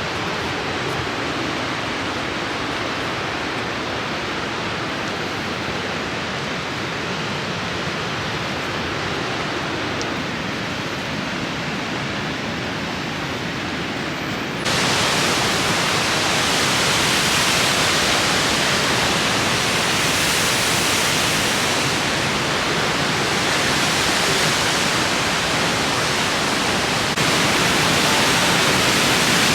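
Niagara Falls: the steady rush of heavy falling water. About halfway through, it jumps to a louder, hissier rush, and it grows a little louder again near the end.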